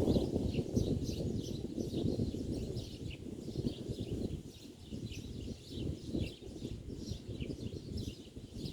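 Small birds chirping, a steady stream of short, high chirps from several birds at once, over a low, uneven rumble.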